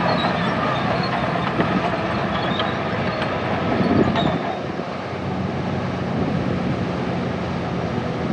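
Heavy diesel earthmoving machinery working: a steady engine drone with scattered clanks and rattles, a little louder in the first half and easing off about four and a half seconds in.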